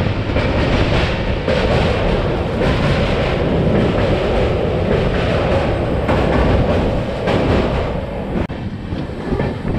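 Poorva Express passenger train running along the rails, heard from the open door of the moving coach: a loud steady rumble of wheels with a rapid clatter running through it. The noise eases slightly near the end.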